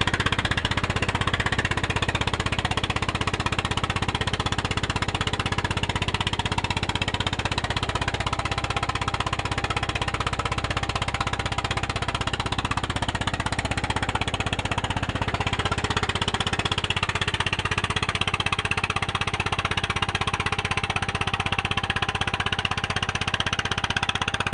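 Fishing boat's engine running steadily with a rapid, even chugging.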